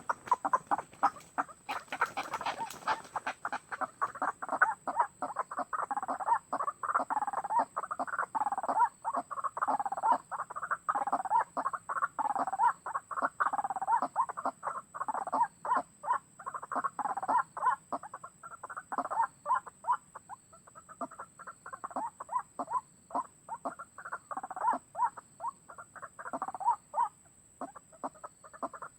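White-breasted waterhen calls: a dense, rapid series of repeated notes going on almost without pause, easing briefly about two-thirds of the way through. A steady thin high tone runs underneath.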